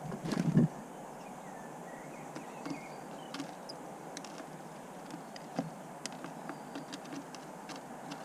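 Birds at a bird table close to the microphone: a short loud burst of low knocking and rustling at the very start, then scattered sharp taps of beaks pecking on the wood, with a faint short bird call about two seconds in.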